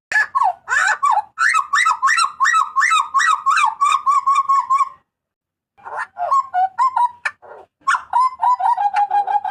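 Papuan butcherbird calling loudly: a fast run of harsh, repeated sweeping notes, about four or five a second. It breaks off about five seconds in, then resumes with more varied calls and a drawn-out lower note near the end.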